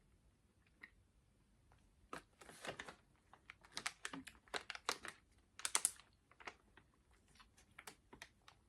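Faint close-up chewing of a chewy Skittles gummy candy: irregular soft, wet clicks and smacks of the mouth, a few a second, starting about two seconds in.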